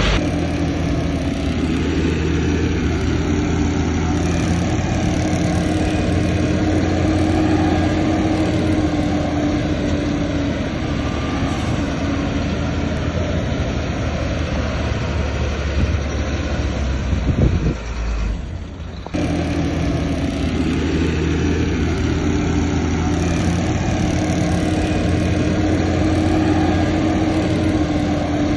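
Heavy earthmoving machine's diesel engine running steadily. The sound drops away briefly about two-thirds of the way through, then resumes unchanged.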